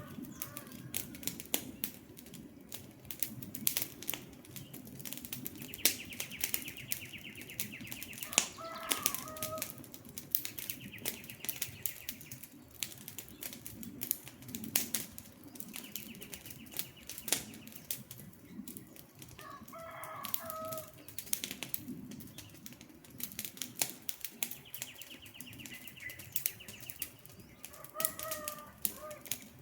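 Wood campfire crackling, with frequent sharp pops over a low steady rumble of burning. A bird call comes four times, about every ten seconds, and a high buzzy trill sounds in between.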